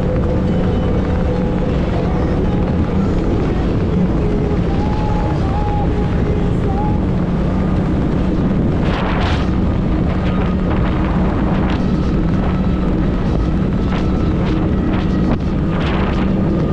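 A 90-horsepower Evinrude outboard motor running at a steady speed under way, with wind noise on the microphone and a short burst of rushing noise about nine seconds in.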